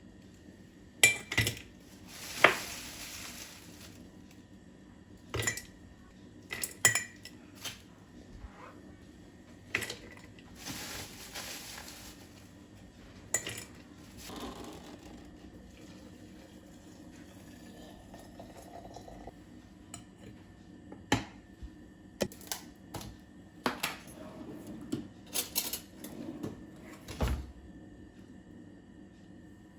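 Kitchen dishes and cutlery clinking and knocking, heard as a string of separate sharp clinks and taps at irregular intervals. There are two longer, noisier stretches about two seconds and eleven seconds in.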